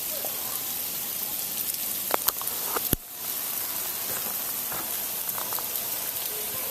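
Sleet falling: a steady hiss of ice pellets with scattered light ticks. There is a sharp click just before three seconds in, followed by a brief dip in the sound.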